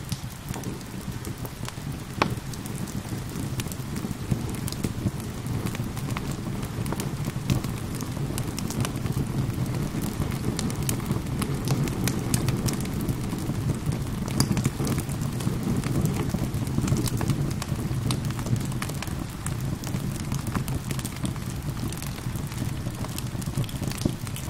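Steady rain with a wood fire crackling over it, a constant low rush broken by frequent sharp pops and snaps.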